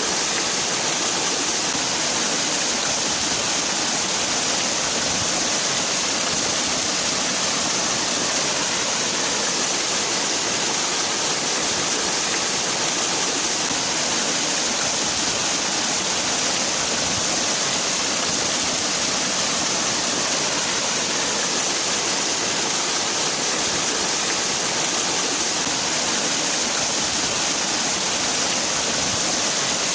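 Waterfall: a steady rush of falling water, even and unchanging, with the most energy in a bright hiss.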